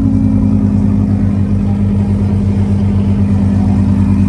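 Car engine running at a steady idle, loud, with a fast even throb.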